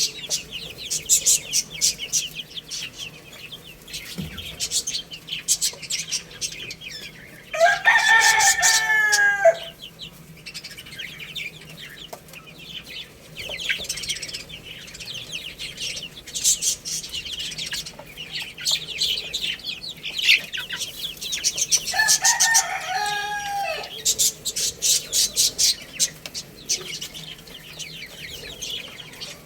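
A rooster crows twice, about 8 seconds in and again about 22 seconds in, each crow lasting about two seconds. Under the crows, chicks keep up a constant high-pitched chirping.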